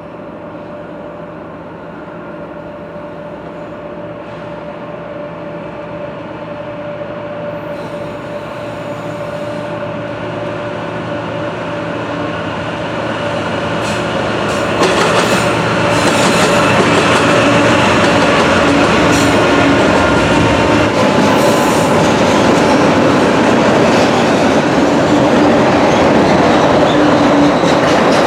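Norfolk Southern freight train led by two GE diesel locomotives (an ES44DC and a C44-9W) approaching and passing. The engines grow steadily louder, reach full loudness about halfway through, and the wheels click over the rail joints as the train goes by.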